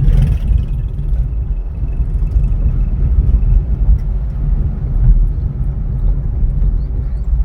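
Low, steady rumble of a car on the move, with no clear events on top.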